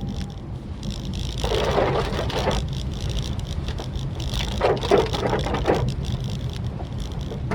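Maruti Suzuki Swift Dzire driving on a rainy road, with a steady low road-and-engine rumble. Twice, about a second and a half in and again about four and a half seconds in, a louder hissing swish lasts roughly a second.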